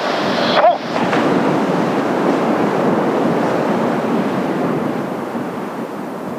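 Strong wind buffeting the microphone, mixed with the rush of surf, as a steady noise that eases slightly toward the end. A brief burst of voice comes just under a second in.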